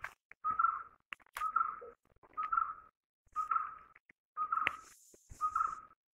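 A bird calling the same short note over and over, about once a second.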